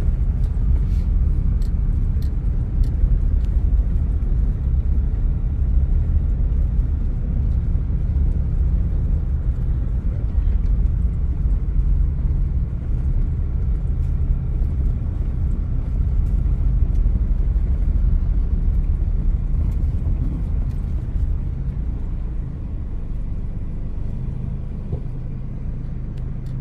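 Car driving slowly, with a steady low engine and road rumble that eases off a little near the end.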